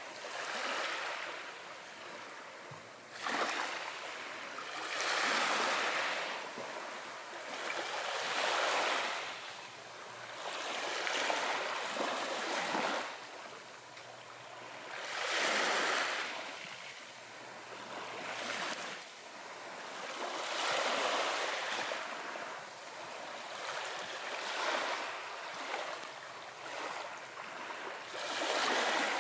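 Small waves washing onto a beach: a hiss of surf that swells and fades every few seconds as each wave breaks and runs up.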